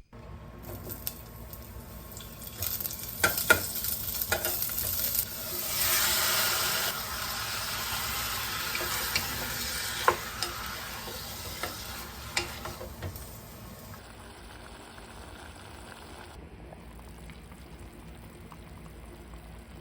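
Food sizzling in a hot pan, with a few sharp clicks of a utensil against the pan. The sizzle is loudest for several seconds in the middle and drops to a quieter hiss for the last few seconds.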